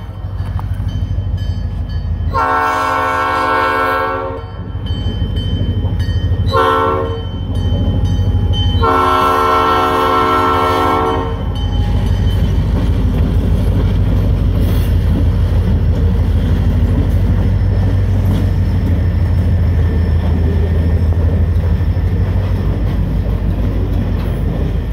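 Escanaba & Lake Superior diesel locomotive 501 blowing its air horn for a grade crossing in the standard long, long, short, long pattern: a blast ends just at the start, a long one follows about two seconds in, a short one at about seven seconds, and a long one at about nine seconds. After that the locomotive's diesel engine runs on with a steady low rumble as the log-loaded freight cars roll past over the rails.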